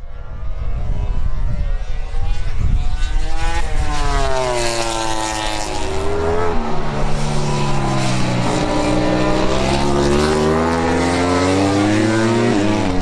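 Ducati Desmosedici GP25 MotoGP bike's V4 engine running hard at high revs. Its pitch falls and rises in long sweeps, with a sudden jump in pitch about four seconds in.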